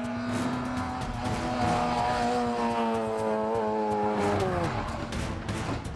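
Rally car engine held at steady high revs, its pitch falling away about four and a half seconds in.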